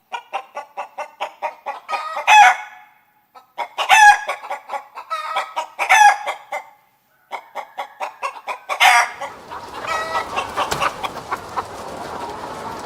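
Chicken clucking in quick runs of short clucks, each run ending in a louder drawn-out call, three or four times over. After about nine and a half seconds the calls give way to a steadier noisy background with scattered clicks.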